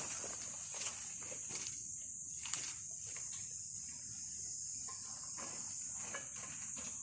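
Steady high-pitched insect chorus, crickets among them, with a few short clicks and rustles.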